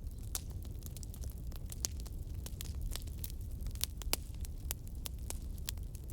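Wood campfire crackling: irregular sharp pops and snaps from burning logs, several a second, over a steady low rumble.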